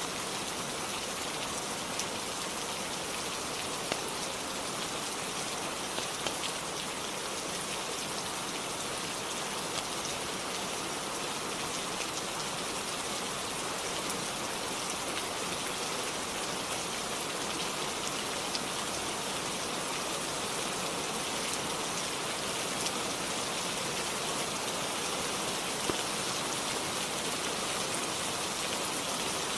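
Steady rain falling, an even hiss with a few sharp isolated ticks scattered through.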